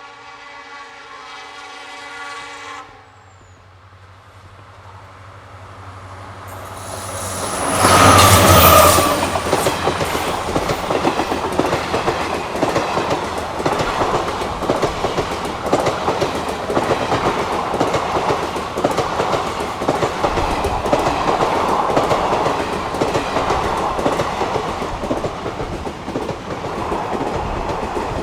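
Electric locomotive horn sounding one steady blast for about three seconds, then an Indian Railways express train passing at speed: the locomotive rushes past loudest about eight seconds in, followed by ICF coaches rattling and clicking over the rail joints.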